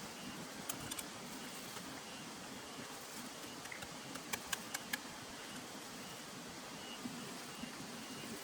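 Steady outdoor hiss with a faint high chirp recurring through it, and a quick run of four sharp clicks about four to five seconds in.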